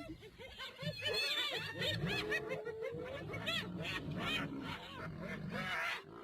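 Several spotted hyenas giggling and squealing at once, a dense run of overlapping rising-and-falling calls: the sound of hyenas squabbling over food at a kill.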